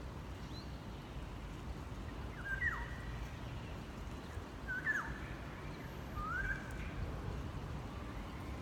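Three short pitched animal calls, about two seconds apart, each sweeping quickly in pitch, over a steady low rumble.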